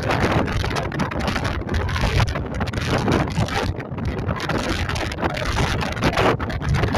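Strong wind buffeting the microphone on a ferry's open deck: a dense, uneven rumbling rush that rises and falls with the gusts.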